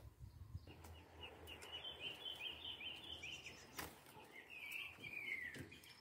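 Faint bird chirping: a quick run of short high notes, then a single falling note near the end, over faint outdoor background hiss.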